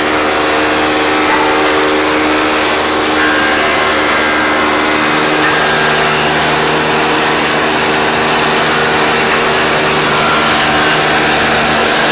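A woodworking power machine running steadily and loudly, with a steady hum whose tones shift about three and again about five seconds in.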